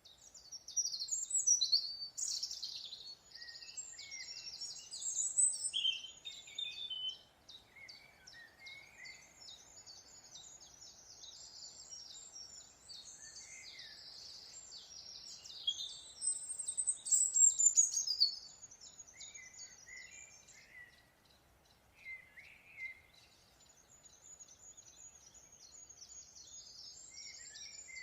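Several small songbirds singing and chirping in rapid, high-pitched trills. The song swells louder in a few bursts, the loudest in the middle.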